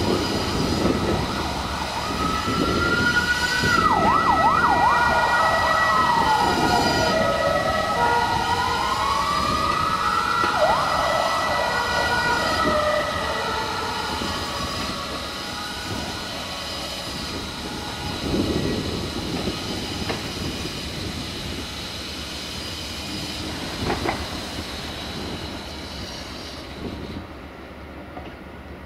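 Passenger train rolling away over points, its rumble fading toward the end. For about the first ten seconds, high tones slide up and down above the rumble, and a single sharp click comes near the end.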